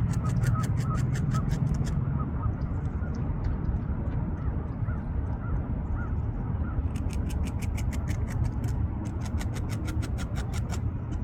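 Beaver gnawing bark off a branch with its incisors: a rapid run of crisp crunching clicks, about six a second, that slackens to a few faint nibbles midway and picks up again about seven seconds in, over a steady low rumble.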